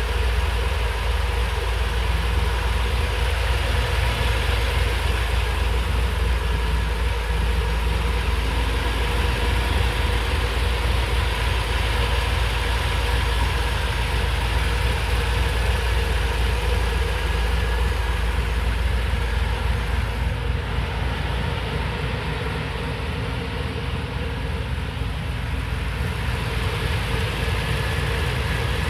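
International Harvester Scout II engine running steadily, dipping slightly in level for a few seconds about two-thirds of the way through.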